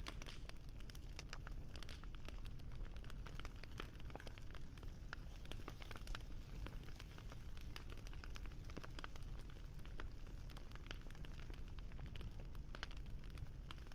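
Wood fire crackling: frequent small irregular pops and snaps over a low steady rumble of burning.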